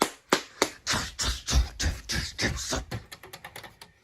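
Garbled soundtrack of a badly damaged VHS tape playing through the TV, cutting in and out in sharp rhythmic pulses about three a second. Midway it breaks into a jumbled stutter, then into faster, fainter ticks near the end.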